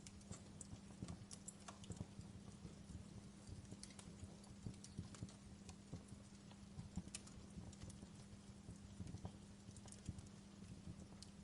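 Fire crackling faintly, with irregular sharp pops and snaps over a low steady hum.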